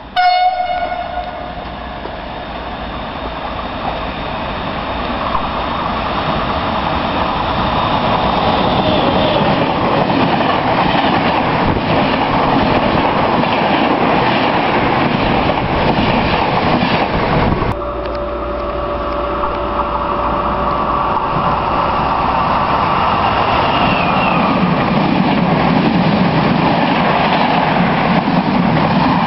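An Intercity passenger train sounding a short horn blast as it comes in, then running through the station at speed close by, with the steady rumble and wheel clatter of its coaches passing. A brief high squeal comes about three-quarters of the way through.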